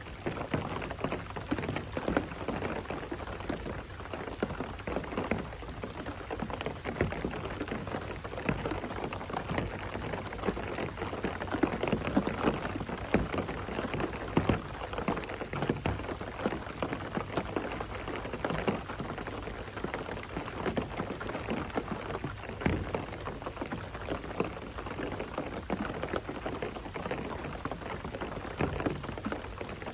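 Steady rain, with many separate drops striking a surface close by.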